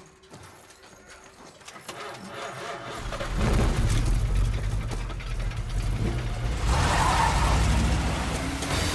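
A 1969 Ford Mustang's V8 being started: the engine builds and catches about three seconds in, then keeps running loud and low.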